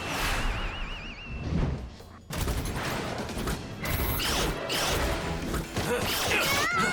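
Cartoon battle sound effects over background music: a warbling tone at the start, then, after a brief drop, a dense run of blasts and impacts with gliding whooshes.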